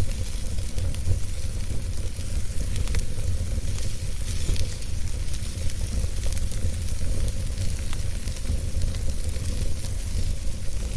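Wood fire burning in a fireplace: a steady low rumble of flame with many small crackles and pops scattered throughout.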